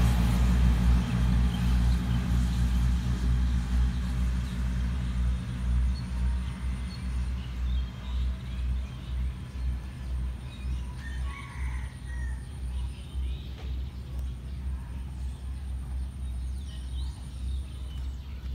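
Diesel express train running away into the distance, its low engine rumble fading steadily. A bird chirps briefly about eleven seconds in.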